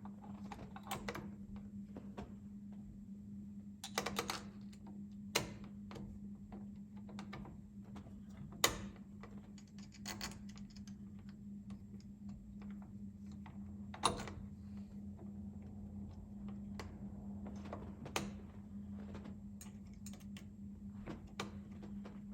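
Scattered sharp clicks and light taps of small parts being handled and seated while a horn button assembly is fitted to a steering wheel, over a steady low hum.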